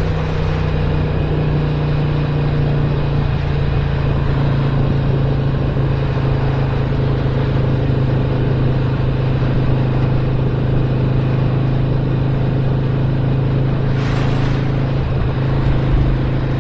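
2017 Harley-Davidson Roadster's 1200 cc V-twin, fitted with a stage 1 upgrade, running at a steady cruising speed with wind and road noise. A brief whoosh passes near the end.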